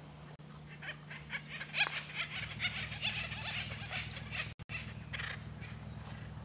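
Acorn woodpeckers calling: many short, quickly repeated notes, thickest in the first half, over a steady low hum.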